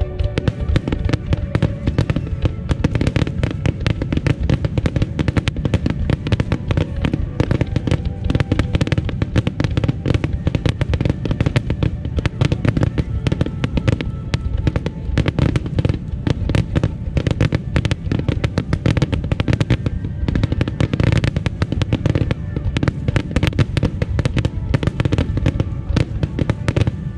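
Starmine fireworks barrage: aerial shells bursting in rapid, unbroken succession, a dense run of booms and crackles many times a second with a deep rumble underneath.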